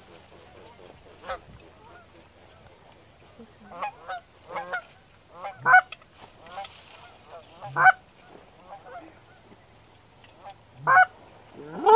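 Goose honking: short single honks at irregular intervals, about seven of them, a couple loud near the end.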